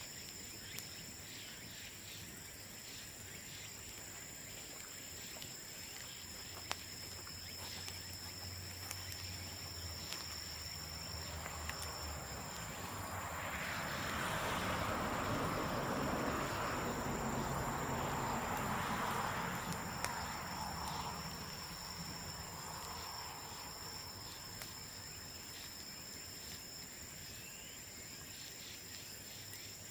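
Insects trilling steadily outdoors, with a few sharp crackles from the burning bamboo fire. In the middle a broad rushing sound with a low hum swells up for several seconds and fades away.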